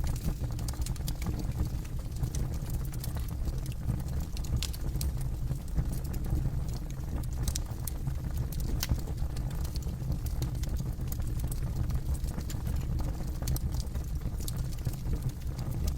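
Campfire burning: a steady low rumble with scattered sharp crackles and pops of burning wood.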